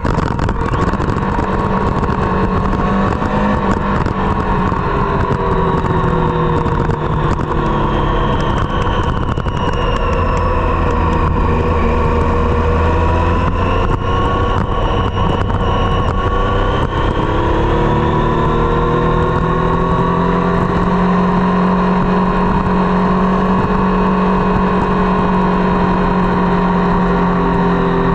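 Triumph Street Triple's three-cylinder engine running through a Dominator GP aftermarket exhaust, held at fairly steady revs; the pitch sags slowly around the middle, then climbs and holds steady.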